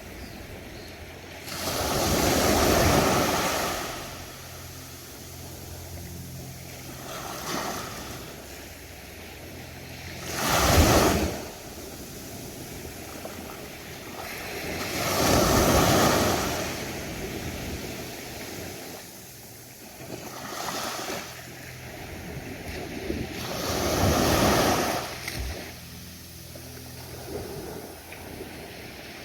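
Ocean waves breaking on a beach, each wave swelling and washing in every four or five seconds over a steady background wash of surf; one wave about eleven seconds in crashes sharper and louder than the rest.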